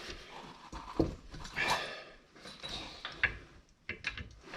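Hand tools clinking and knocking: a socket and breaker bar being fitted onto a caliper bracket bolt, several short metallic clicks with a brief scrape.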